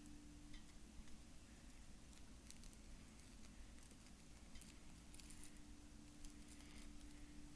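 Faint crinkling and clicking of paper being handled and cut with scissors, over a steady low hum.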